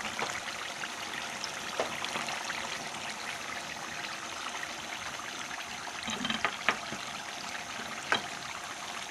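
Chicken liver pieces sizzling steadily as they fry in oil in a pan. A wooden spatula stirring them gives a few sharp knocks against the pan, once early, a cluster about two-thirds of the way through, and once near the end.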